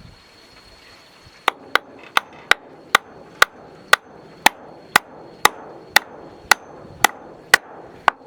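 A hammer striking wood in a steady series of sharp blows, about two a second, starting about one and a half seconds in: nailing down wooden floor planks.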